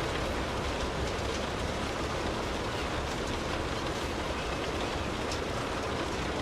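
Steady rainfall, a continuous hiss with a few faint drop ticks, over a low steady rumble.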